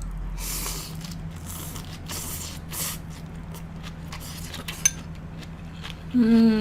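Close-up eating sounds: several short crunchy chewing bursts and a few clicks over a steady low hum. Near the end there is a loud, short hummed 'mm' that falls in pitch.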